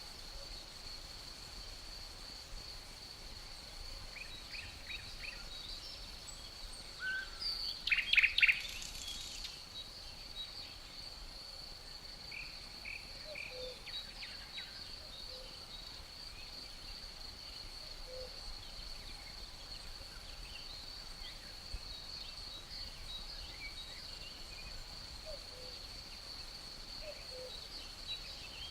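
Forest ambience: crickets keep up a steady high trill while songbirds chirp on and off, with a loud burst of bird calls about eight seconds in. A faint, low, two-note cuckoo call repeats every few seconds in the distance.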